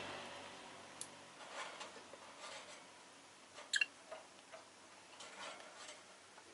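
Peach-faced lovebirds making scattered small ticks and clicks, with one brief, sharp chirp about halfway through. Passing traffic fades out at the start.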